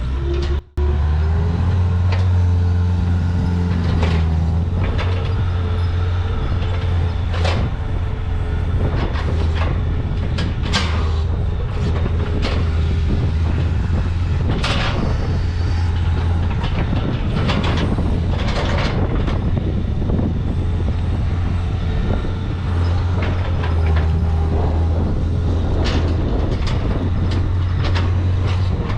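Engine of a piece of farm machinery running steadily, with scattered metal clanks and rattles over it.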